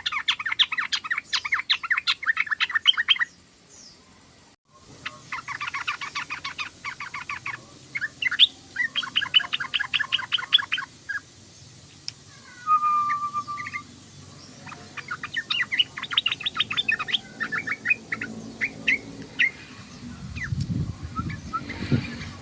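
Yellow-vented bulbul (trucukan) chattering: fast trains of rapid, rattling notes in bursts of a few seconds with short pauses between, broken briefly about four seconds in. A low rumble comes in near the end.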